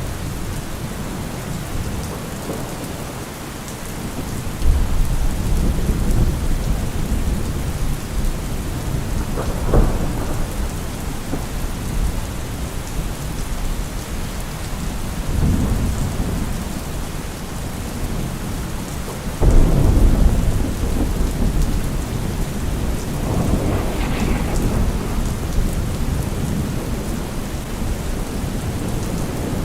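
Steady heavy rain with thunder rumbling repeatedly, several low rolls swelling and fading; the loudest clap breaks suddenly about two-thirds of the way in.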